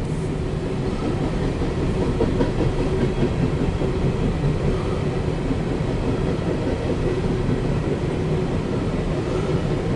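CSX empty coal train rolling past on the rails: a steady rumble and clatter of wheels.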